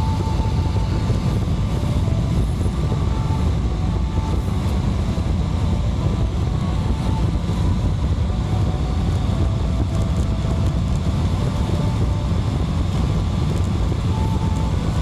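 Steady low cabin rumble of a Boeing 777-300ER airliner in flight, heard from inside the passenger cabin. Faint shifting tones sit above it.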